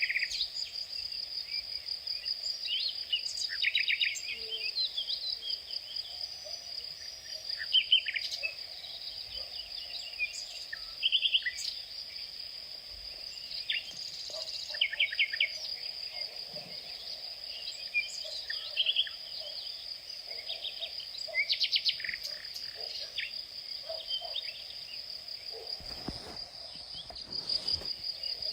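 Outdoor ambience of insects trilling steadily at a high pitch, with short bird chirps and calls scattered throughout. A short rush of noise comes near the end.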